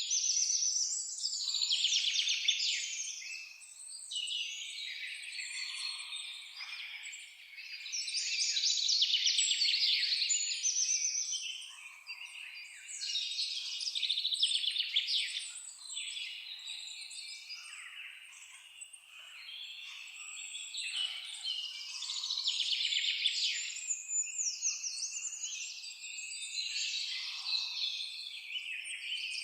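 Several songbirds singing at once: overlapping high chirps and fast trills that swell and fade every few seconds.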